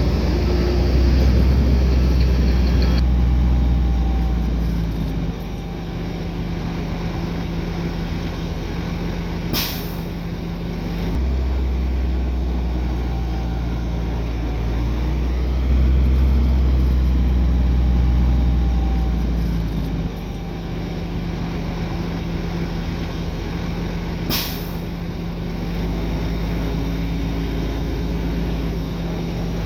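Diesel engines of heavy earthmoving machinery, a bulldozer and dump truck, running under load. Engine pitch and loudness step up and down several times. Two short, sharp sounds stand out, one about ten seconds in and one near twenty-four seconds.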